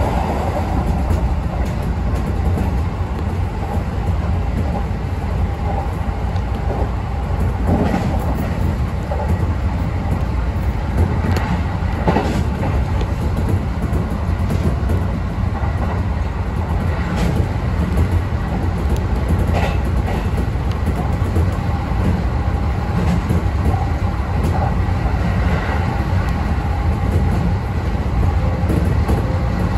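Express train running along the line, heard from inside the car. Wheels on the rails make a steady low rumble, with a few sharp clicks over the rail joints.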